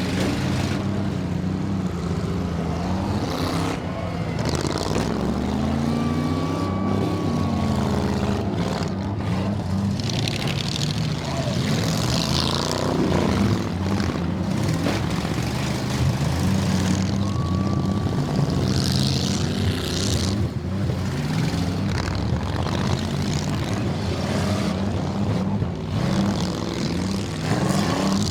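Several demolition derby car engines running at once, revving up and down over and over.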